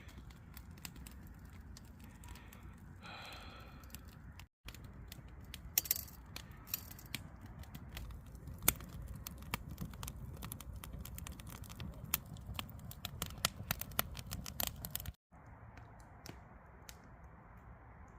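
Wood fire crackling: irregular sharp pops and clicks over a low rumble, busiest in the middle stretch, with two abrupt edit cuts.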